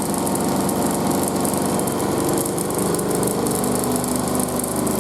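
Front-loading washing machine in its final spin at high speed, close to 1600 rpm. The drum and motor make a steady whirring hum whose pitch climbs partway through as the spin speeds up.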